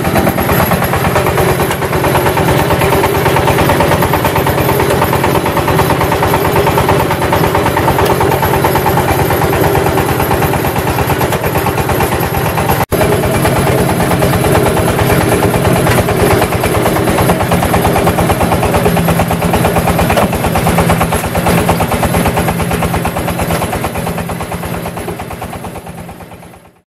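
Engine-driven clay brick press machine running steadily, a loud drone with a rapid, even pulse; it fades out near the end.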